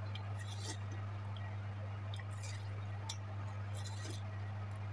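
Wet, crunchy bites and chewing of juicy watermelon, heard as three or four short crackling bursts a second or so apart, over a steady low hum.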